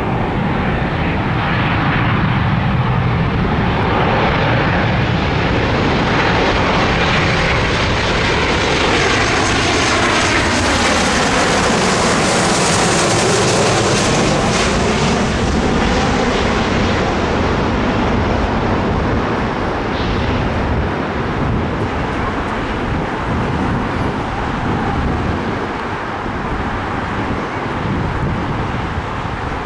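Airliner passing close by with its engines running: the noise builds to its loudest and brightest about halfway through, with a sweeping, swirling quality as it goes over, then fades away.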